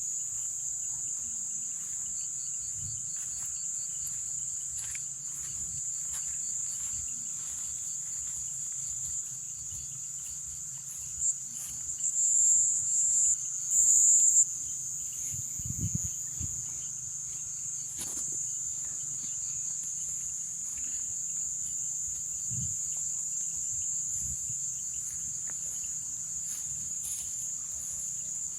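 Night insect chorus of crickets and katydids: a steady, high-pitched shrill trill, with a few louder, closer calls around the middle.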